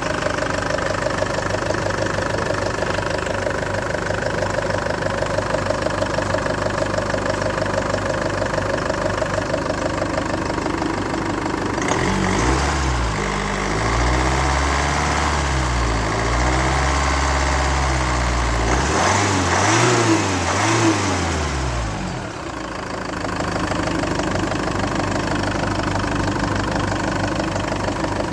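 2008 Land Rover Freelander 2 engine idling steadily, then revved up and down several times from a little before halfway, with two quick blips near the end of the revving, before it settles back to idle.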